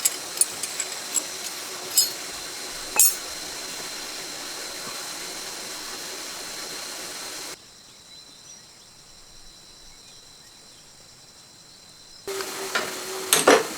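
Steady hiss with a few sharp clicks and knocks in the first three seconds. The sound drops suddenly much quieter about halfway, then comes back with a couple of sharp knocks near the end.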